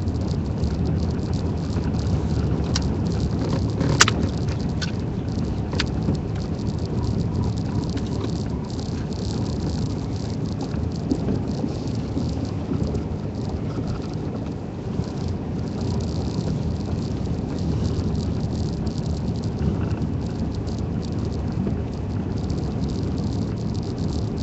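Vehicle on snow tires driving slowly over a snowy road, heard from inside the cabin: a steady low rumble of engine and tyres with light rattling. A sharp click comes about four seconds in, followed by a couple of fainter ticks.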